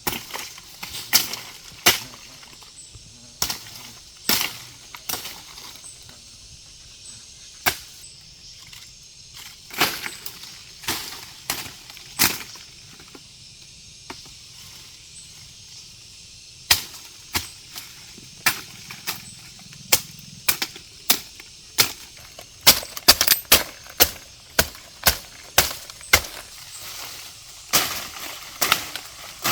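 A series of sharp knocks or strikes, irregularly spaced, about one every second or so at first and coming faster and more closely bunched in the second half.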